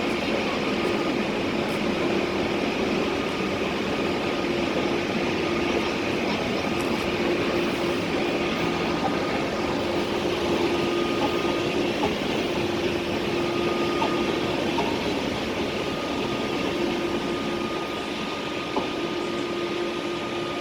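Railjet train pulling out of the station behind a Siemens Taurus electric locomotive: a steady rolling rumble with a steady electrical hum, fading slightly near the end.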